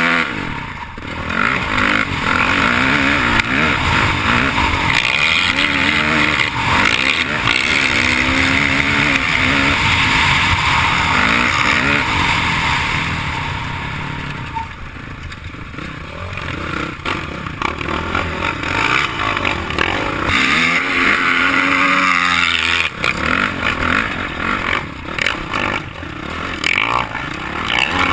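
Dirt bike engine revving up and down as it rides, heard close from the rider's own bike, its pitch rising and falling again and again. It eases off and quietens about halfway through, then picks up again.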